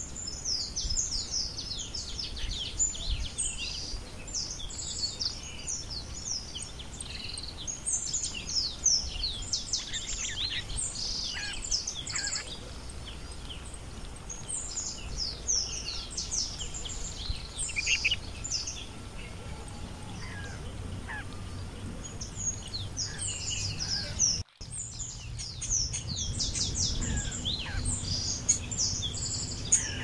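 A chorus of birds chirping, with many short, high calls overlapping almost without a break. The sound drops out briefly about 24 seconds in.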